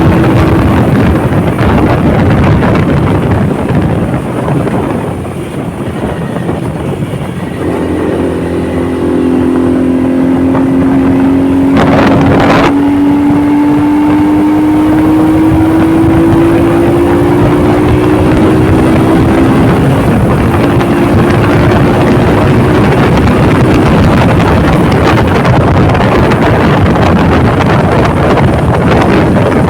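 Honda motorcycle under way: wind buffeting the microphone over the engine's hum, which climbs slowly in pitch through the middle as the bike speeds up. A brief loud rush about twelve seconds in.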